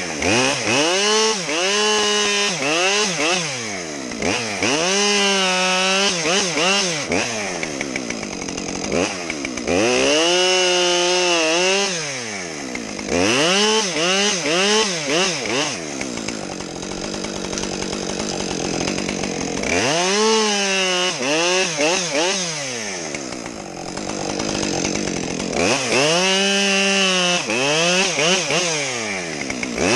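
Two-stroke chainsaw cutting through logs. The engine revs up, its pitch sags as the chain bites and recovers again, over repeated cuts. It eases off to a lower running for a few seconds in the middle.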